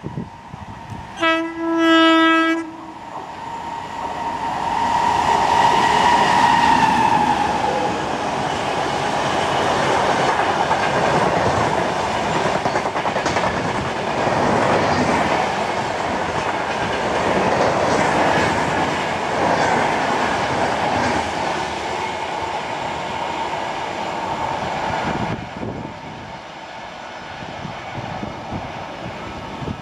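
WAG9 electric locomotive sounds its horn, about a second and a half long, about a second in, then passes at speed with a whine that falls in pitch as it goes by. The LHB passenger coaches follow with a loud rolling rush and wheel clatter on the rails, which drops off sharply about 25 seconds in as the last coach passes.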